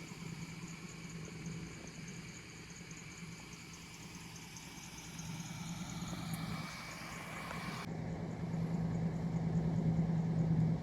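Camper van engine idling with a steady low hum, growing louder in the last few seconds.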